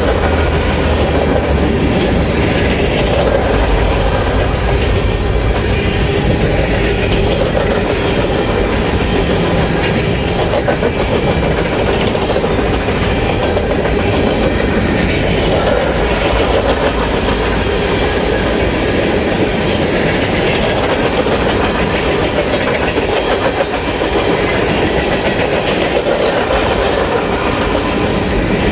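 Freight cars of a Union Pacific mixed-freight train rolling past, wheels clattering on the rails in a steady clickety-clack. A deep rumble fades in the first few seconds.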